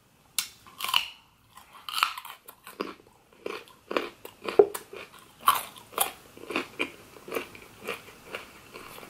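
Raw carrot being bitten and chewed, a crisp crunch about twice a second.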